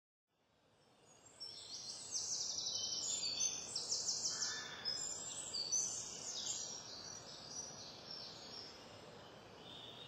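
Small birds singing and twittering, with quick high trills in the first half and thinning towards the end, over a faint outdoor hiss; the sound fades in at the start.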